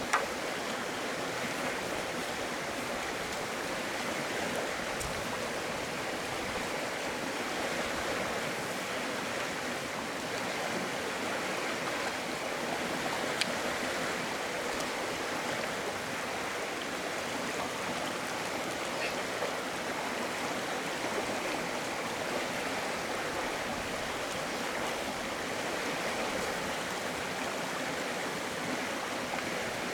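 Steady rush of flowing stream water, with a couple of brief faint clicks.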